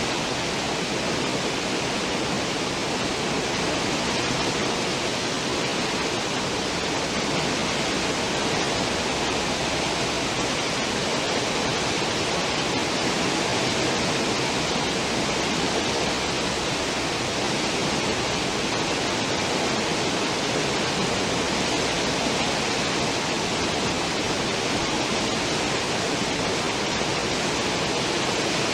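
Cruise ship's stern wake: churned water rushing and foaming behind the ship in a steady, even rush.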